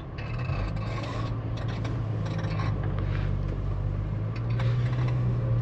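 Subaru Sambar kei truck's small engine running steadily, growing a little louder and higher in pitch in the second half as the truck begins to move off.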